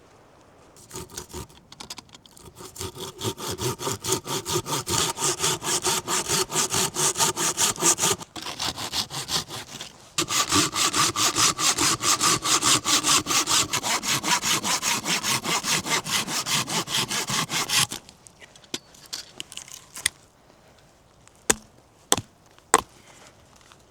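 Hand saw cutting through wood in quick, even back-and-forth strokes, about three a second, in two long runs with a brief pause between. The sawing stops a few seconds before the end, followed by a few sharp knocks.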